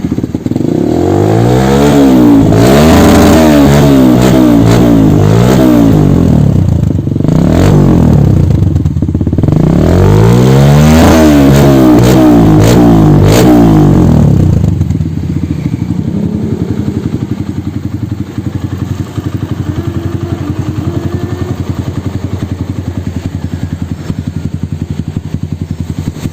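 Kawasaki D'Tracker's single-cylinder four-stroke engine breathing through a Norifumi RV1 N4 aftermarket exhaust, revved up and down repeatedly in two bursts of throttle blips. From about fifteen seconds in it settles back to a steady idle.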